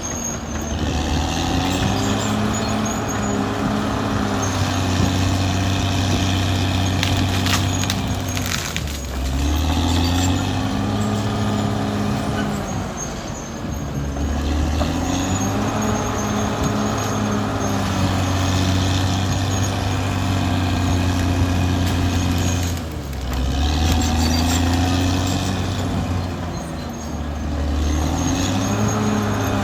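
Caterpillar D6R XL bulldozer's diesel engine working under load. Its pitch drops and climbs again every several seconds as the dozer loads up and eases off, with a few sharp clanks about a third of the way in.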